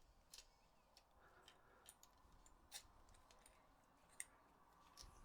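Near silence with faint, scattered small clicks and taps, about half a dozen, from the plastic parts and internals of a DualShock 4 controller being handled during reassembly.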